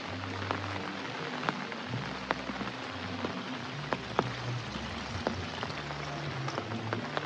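Heavy rain falling steadily, with louder single drops striking something hard several times.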